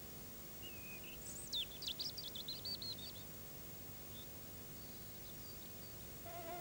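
A songbird singing one quick phrase of high, fast-changing notes about a second in, lasting about two seconds, with a few faint chirps around it over a faint steady hum.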